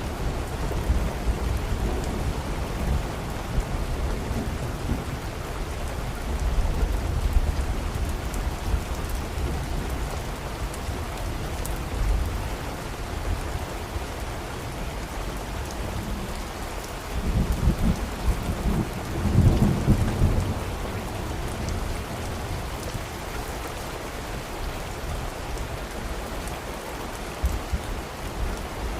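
Steady heavy rain with low rolling thunder. The rumble swells twice, loudest about two-thirds of the way through, then eases toward the end.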